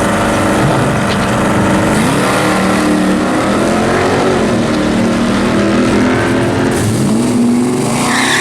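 Drag-racing car engines revving, pitch rising and falling several times. A tire squeal starts right at the end.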